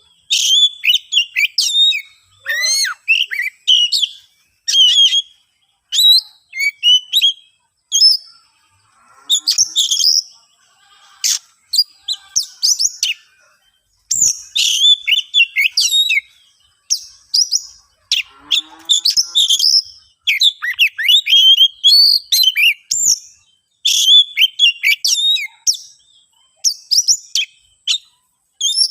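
Oriental magpie-robin (kacer) singing in rapid, varied phrases of chirps, whistles and trills, broken by short pauses. It is the bird's agitated fighting song, a territorial challenge to a rival.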